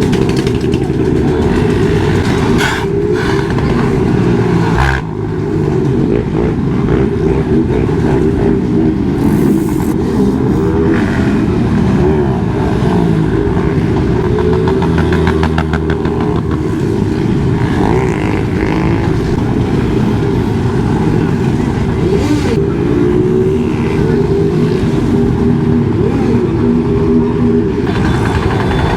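Motorcycle engines running and revving, a loud steady low rumble with the pitch rising and falling, dipping briefly about five seconds in.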